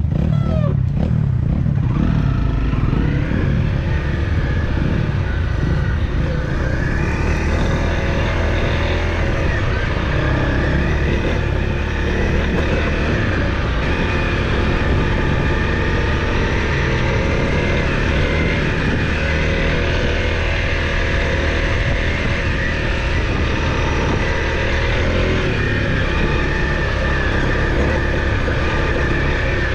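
Off-road dirt bike engine running steadily under way on a trail.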